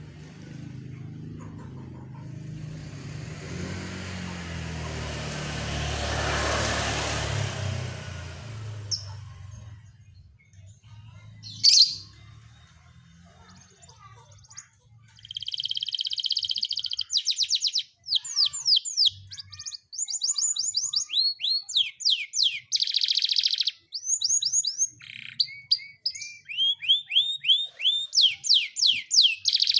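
A domestic canary singing in long, fast phrases: rapid trills and runs of repeated sweeping notes, starting about halfway in. Before the song there is a rising rushing noise that stops abruptly, then a single sharp click.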